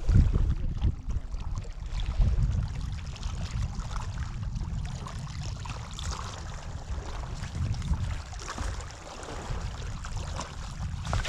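Uneven low rumble of wind buffeting the microphone on an open boat, with water lapping at the hull and a few faint knocks.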